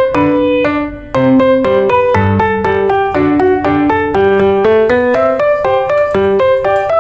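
Background piano music: a brisk melody of short, struck notes, with a brief pause about a second in.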